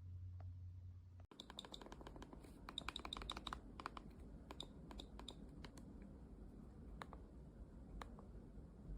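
A steady low hum that cuts off about a second in, then a run of light, sharp clicks and taps, quick and close together at first and then scattered single clicks.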